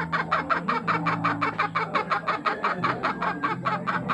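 Rapid, even clucking from a bird, about nine short pulses a second, over a low steady hum.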